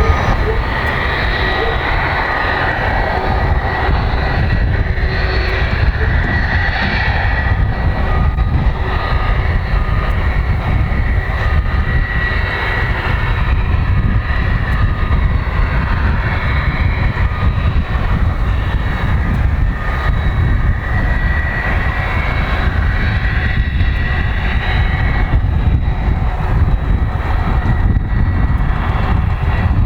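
Airbus A300's twin turbofan engines running, a steady loud rumble with a faint high whine over it.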